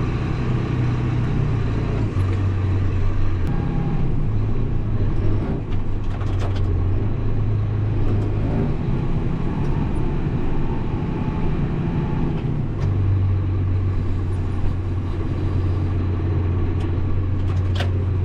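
Engine of a snow-plowing machine with a four-way blade running steadily, its low drone stepping up and down in pitch every few seconds as it works.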